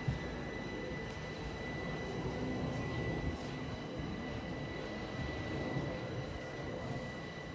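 Class 377 Electrostar electric multiple unit running, a steady high-pitched electrical whine over a low rumble.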